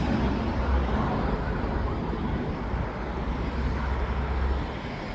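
City street noise: road traffic running past, with a low rumble that fades shortly before the end.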